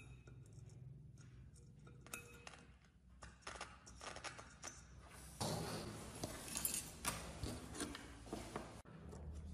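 Light clinks and taps of small hard objects being handled: scattered at first, then busier from about halfway through.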